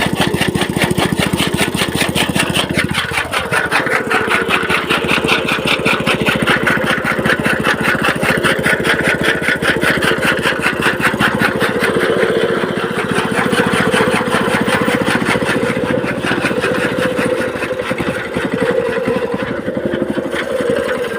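Small petrol engine running steadily with a fast, even beat, powering a toka chaff-cutter machine. A falling tone sweeps down about three seconds in.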